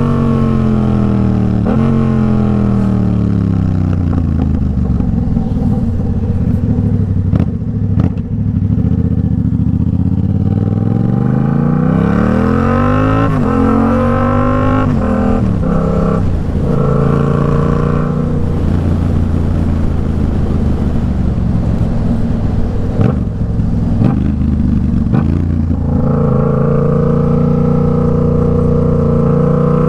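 Yamaha MT-07 689 cc parallel-twin engine through an aftermarket Arashi exhaust: the revs fall steadily under engine braking for about ten seconds, then it pulls hard through several quick upshifts, holds a steady cruise, and picks up again near the end.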